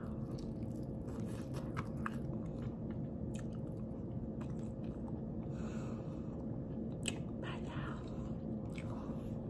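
A person biting into a barbecue-sauced rib tip and chewing it, with scattered wet clicks and smacks from the mouth over a steady low hum.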